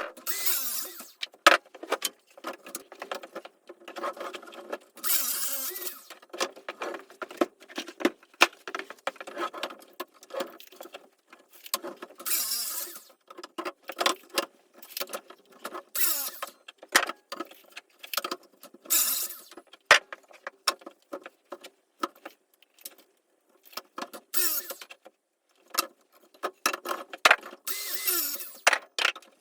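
Irregular knocks and clicks with short rasping strokes every few seconds, the sounds of hand work on wood and building materials.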